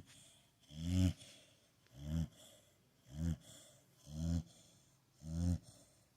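Pit bull snoring in its sleep: a short, low snore about once a second, five in all, each swelling and cutting off sharply, with a fainter breath trailing after it.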